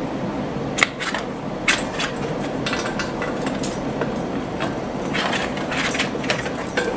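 A scatter of short sharp clicks and knocks over a steady background noise.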